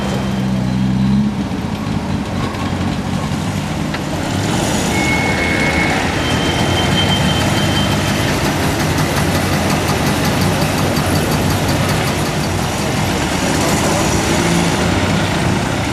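Engines of several vintage cars running as they drive slowly past one after another.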